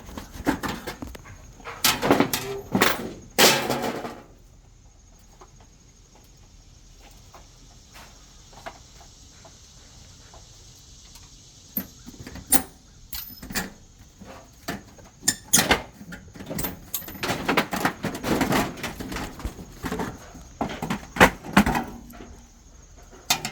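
Siding being handled and worked at on a house wall: irregular clatter, knocks and scrapes in two spells, one in the first few seconds and a longer one from about halfway through, with a quiet stretch between.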